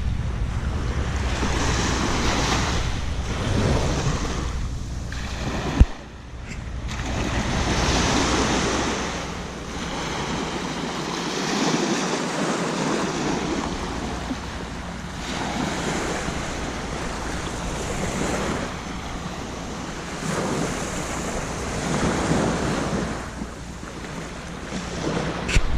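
Sea waves breaking and washing up a sandy beach, swelling and fading every few seconds, with wind rumbling on the microphone. A single sharp knock about six seconds in.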